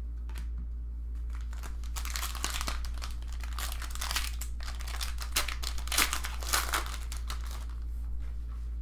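Foil trading-card pack wrapper crinkling and tearing open, in a run of crackling that grows over a few seconds, with a few louder crackles near the end.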